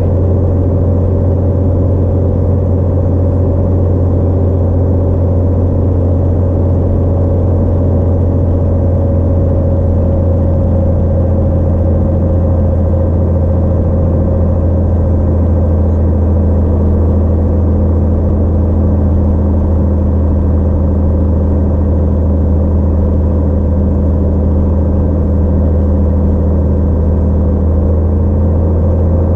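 Cessna 182 single piston engine and propeller running steadily in flight, a constant deep drone.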